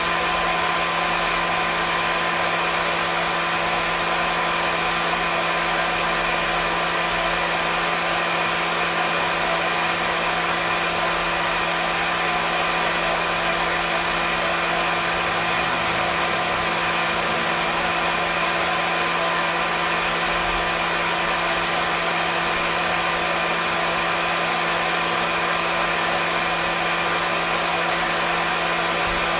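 Hair dryer running steadily: a constant rush of air with a steady motor hum, even and unchanging throughout.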